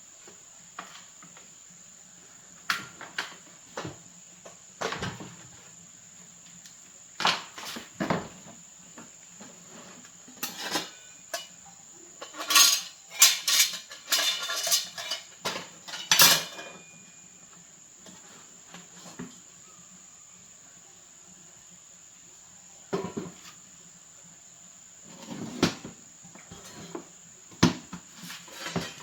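Intermittent clatter, clinks and knocks of hard parts and tools being handled, loudest in a run of rapid metallic clinks about halfway through. A steady high-pitched whine runs underneath.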